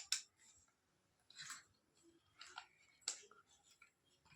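Faint handling noise: a few short clicks and rustles of small plastic drone parts and packaging being picked up and set down.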